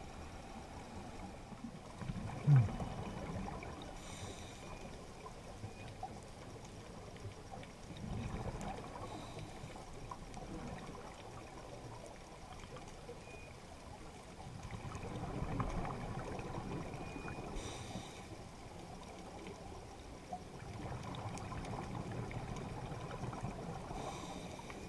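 Scuba diving heard underwater: a diver's regulator breathing, with exhaled bubbles rushing and gurgling in swells every six or seven seconds and a short hiss between them on the inhale. There is a brief loud low bump about two and a half seconds in.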